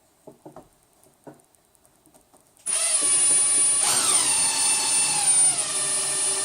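A few light clicks of parts being handled, then a power drill starts about two and a half seconds in, driving a screw into the frame panel. Its motor whine falls in pitch as the screw bites and loads it up, and it keeps running.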